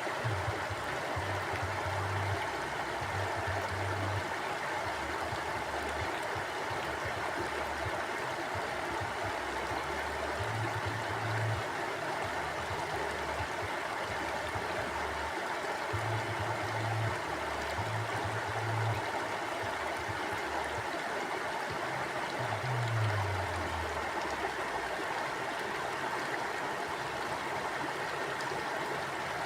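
Mountain stream flowing steadily, a constant even rush of water, with low rumbles coming and going underneath.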